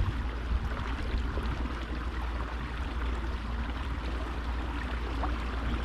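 Water splashing and lapping around a kayak's hull, over a steady low rumble.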